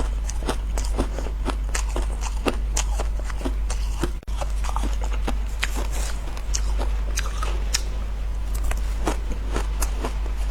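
Powdery ice being bitten and chewed close to the microphone: a dense run of small, crisp, irregular crunches over a steady low hum, with a brief break a little after four seconds.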